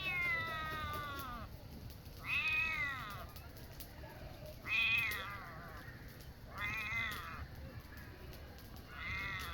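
Domestic cat meowing repeatedly: five drawn-out meows about two seconds apart, the first falling in pitch.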